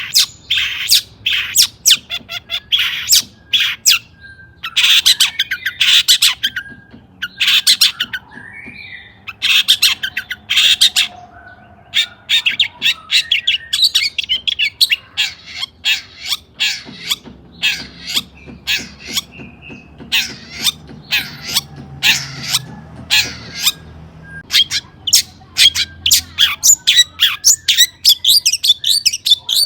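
Long-tailed shrike (cendet) singing vigorously: fast runs of short, rough chattering notes with brief pauses between them, and a few softer gliding notes about a third of the way in.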